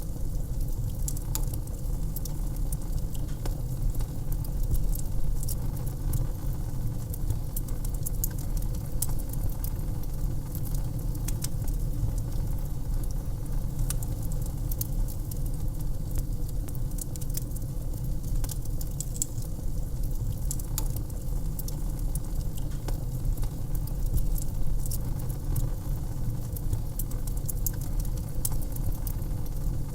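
Wood fire crackling in a fireplace: a steady stream of small, irregular pops and snaps over a low, steady rumble.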